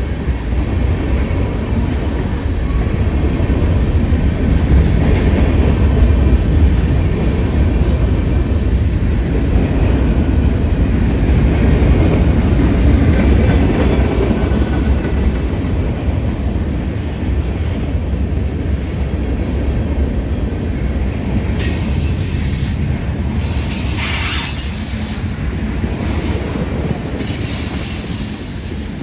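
Freight cars of a Union Pacific manifest train rolling past with a steady, loud rumble of wheels on rail. In the last third there are short bursts of high-pitched wheel squeal.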